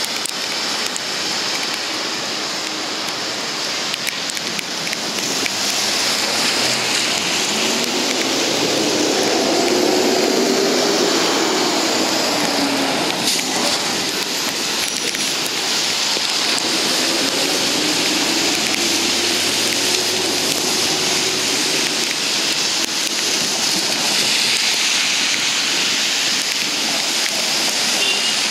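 Heavy rain falling steadily in a downpour, a dense even hiss with no thunder heard.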